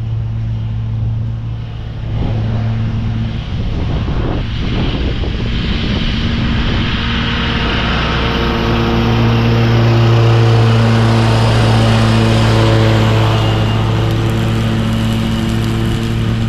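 Commercial lawn mower's engine running steadily with the blades spinning as it mulches leaves, with a hiss over the engine note that grows a little louder about halfway through.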